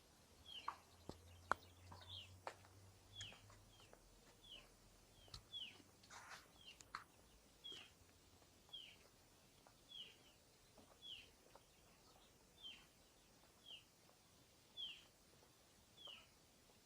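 A bird repeating a short call that drops in pitch, about once a second, with a few other brief chirps in the first several seconds.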